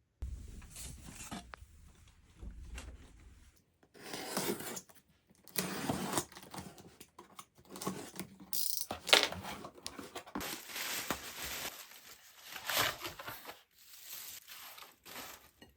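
Packaging being torn open and crinkled in irregular bursts, with a sharp click about nine seconds in. A low hum stops about three and a half seconds in.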